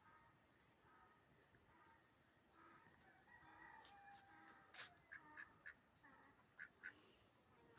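Faint bird calls, quacking fowl among them, with higher twittering early on and a few sharp clicks from about five seconds in.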